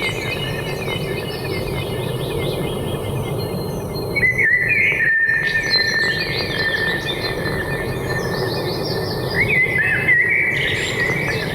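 Forest birds singing in repeated chirping phrases, busiest about four seconds in and again near the end, over a steady rushing background noise.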